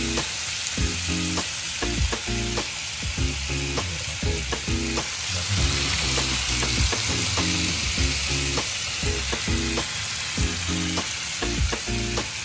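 Squid topped with melting mozzarella sizzling steadily in butter on a hot pan, a continuous frying hiss with short clicks and pops.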